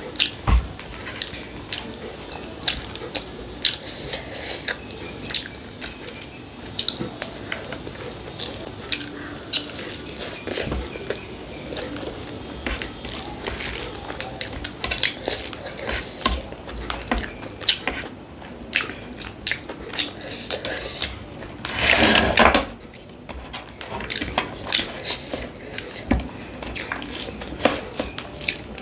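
Close-up wet chewing and mouth sounds of a person eating, a steady run of sharp smacks and clicks. About three quarters of the way through there is one louder noisy burst lasting about half a second.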